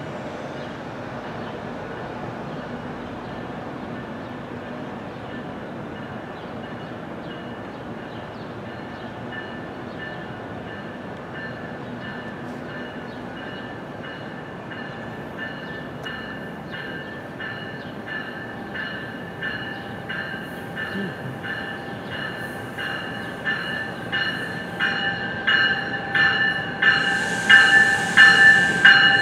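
NJ Transit multilevel commuter train approaching and running past the platform, growing steadily louder. Its wheels click over the rail joints faster and faster under a steady whine, with a short hiss near the end.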